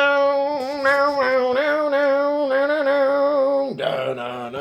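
A man's voice singing a long wordless held note with vibrato, then breaking off and starting a lower note near the end.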